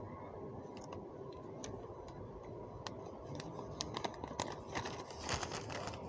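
Faint, irregular clicks and ticks, a dozen or so scattered through, over a steady low background hum.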